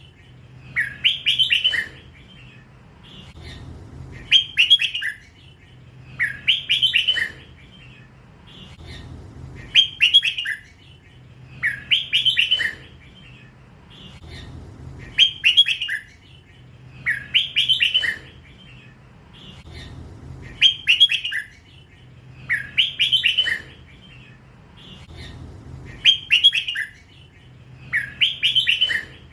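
Young hybrid red-whiskered bulbul singing in the drawn-out 'lak wai' style prized by Thai bulbul keepers. It gives short, clear phrases about every two seconds, around thirteen in a row.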